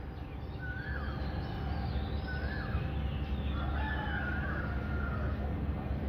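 Bird calls: short high calls about every one and a half seconds, then a longer call about four seconds in, over a steady low background hum.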